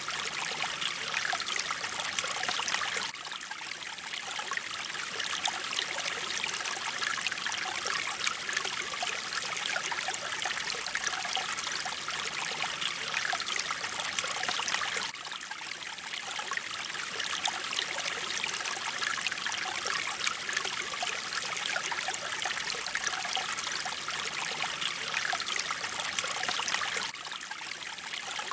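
Mountain stream water running: a steady rush of flowing water that dips slightly in loudness about every twelve seconds.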